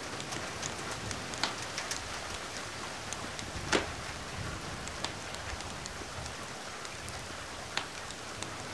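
Steady rain mixed with the scattered sharp pops and crackles of a wood fire, one louder pop a little before halfway.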